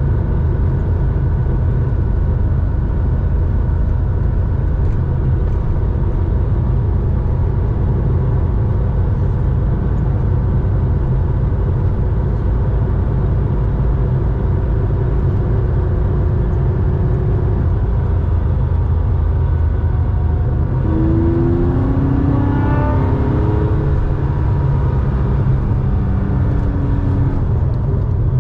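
Air-cooled flat-six of a 1987 Porsche 911 3.4 running through a Scart two-into-one muffler while driving, a steady deep exhaust drone. About three-quarters of the way through, a rising whine climbs over the drone for a few seconds.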